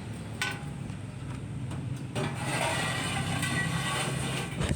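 Truck engine running steadily as a low hum, with one sharp click about half a second in. A louder rush of mixed noise joins from about two seconds in and lasts until near the end.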